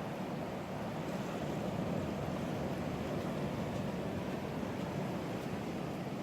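Ocean surf washing onto the beach, a steady unbroken rush.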